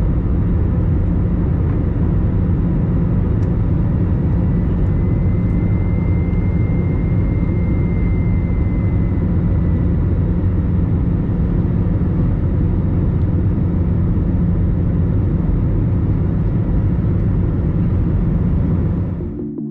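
Airbus A321-200 jet engines and airflow heard from inside the passenger cabin: a steady, loud, low rumble with a faint high whine. It fades out just before the end.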